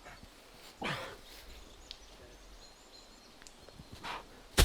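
A heavy atlas stone dropped onto the ground, landing with a sharp thud near the end. About a second in there is a short grunt falling in pitch, with faint bird chirps in between.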